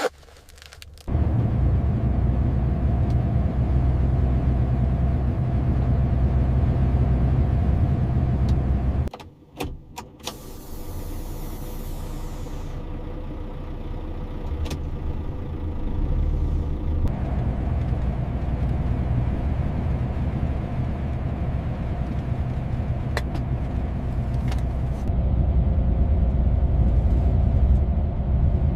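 Big truck's engine and road noise, a steady low rumble that starts suddenly about a second in, drops out briefly around nine seconds, then resumes.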